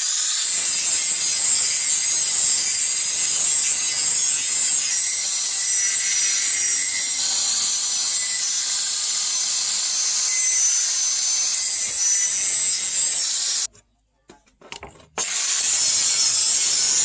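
Power grinder grinding bearing steel: a steady, high-pitched hiss with a faint whine. It breaks off for about a second and a half near the end, then resumes.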